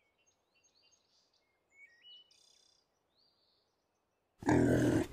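Faint bird chirps and short high whistled calls. Near the end a loud, rough, low sound starts abruptly.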